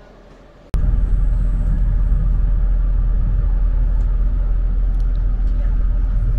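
Steady low rumble of a moving passenger train, heard from inside the coach, starting abruptly less than a second in after a quieter stretch.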